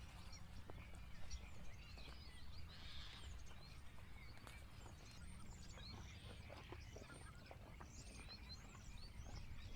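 Faint chirping of small birds, many short calls, over a steady low rumble with a few light clicks.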